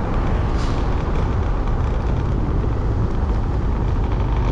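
Motorbike riding along at road speed: a steady rumble of engine and wind noise on the microphone.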